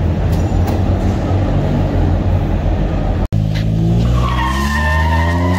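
Loud car engine running with a deep exhaust rumble. After an abrupt cut about three seconds in, an engine revs up slowly, with a high steady whine over it.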